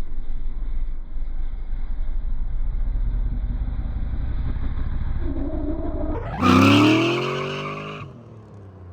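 Cammed race car engine running with a low, steady rumble, then about six seconds in revving hard, its pitch climbing steeply as the car accelerates away and fades.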